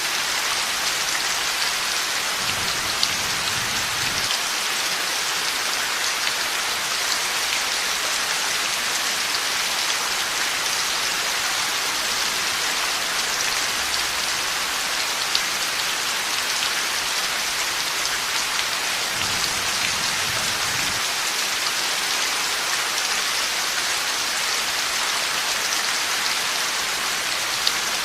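Heavy, steady rain falling on surfaces, with single drops ticking now and then. Two faint, low thunder rumbles come through, a few seconds in and again about two-thirds of the way through.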